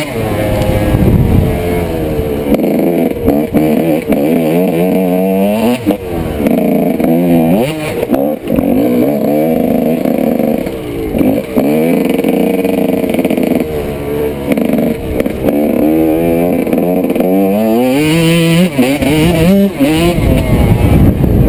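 1995 Honda CR125's 125cc single-cylinder two-stroke engine being ridden hard, its pitch climbing again and again under throttle and dropping back between shifts and off-throttle moments.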